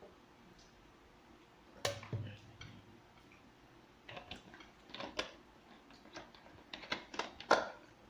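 Scattered sharp clicks and taps of cutlery against plates and bowls during a meal: one about two seconds in, a short cluster midway, and a quick run near the end with the loudest tap.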